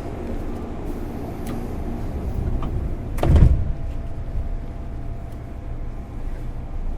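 Steady low hum inside a JR East 205 series electric train standing at a station, with a few faint clicks and a single heavy thud about three seconds in as the sliding passenger doors shut.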